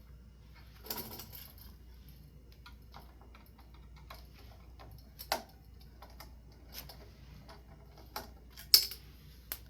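Scattered small clicks and taps of hands and tools working on a ceiling fan's wiring and screws, with a sharp clack near the end.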